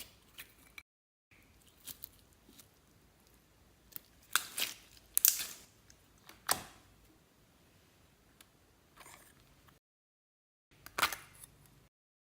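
Slime being handled and mixed with makeup and glitter: scattered sticky clicks and crackles, the loudest a few seconds in and again near the end, with two short dead-silent gaps.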